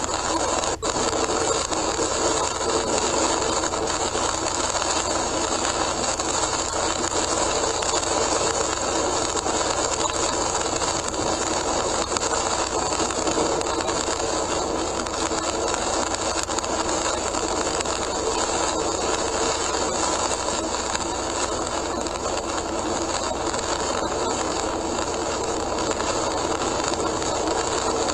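Steady driving noise of a car on a rain-soaked expressway in heavy rain, heard from inside the car through a dashcam microphone, with a single short click about a second in.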